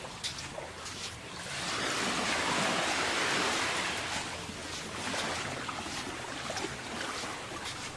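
Small surf breaking and washing up the beach, one wave swelling from about a second and a half in and easing off after about four seconds.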